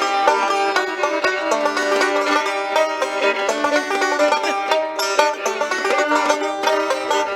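Acoustic folk string music: a lively tune of rapid plucked notes.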